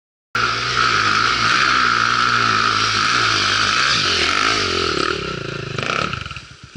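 Off-road motorcycle engine running and revving, cutting in suddenly just after the start and dying away near the end.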